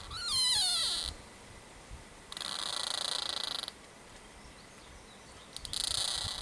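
A tree creaking three times, each creak a high squeal lasting about a second. The first creak wavers and slides down in pitch.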